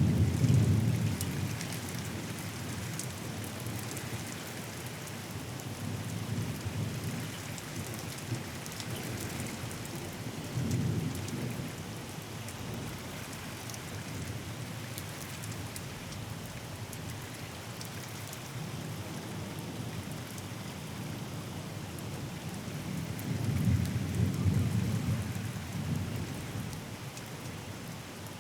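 Steady rain falling, with single drops pattering, under rolling thunder. A rumble is dying away at the start, a shorter one comes about eleven seconds in, and a longer, louder roll builds and fades near the end.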